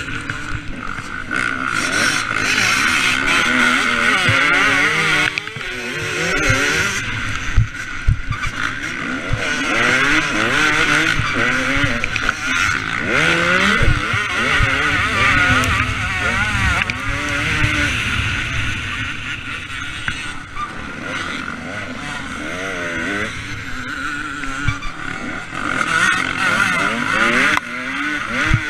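Two-stroke KTM 250 SX motocross bike engine being ridden hard, revving up and falling back again and again through throttle and gear changes.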